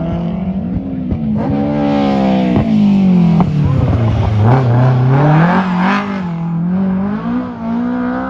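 Race car engine running hard as it passes close by: its pitch falls over a few seconds, then climbs again as it accelerates and levels off, with a rush of noise at its loudest around the middle.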